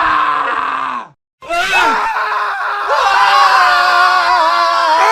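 Several men screaming at once, loud and sustained, in an edited sound montage. About a second in the screams cut off abruptly to brief silence, then a new layer of overlapping male screams starts.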